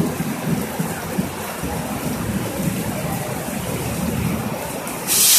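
Heavy rain pouring down steadily, with a low rumble from the approaching diesel locomotive. A sudden loud hiss breaks in about five seconds in.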